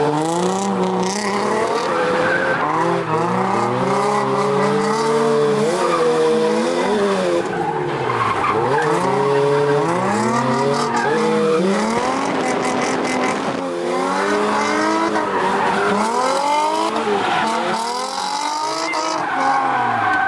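Engines of a Mazda Miata and a Nissan 350Z revving up and down over and over through tandem drifts, with tyres skidding on the wet asphalt.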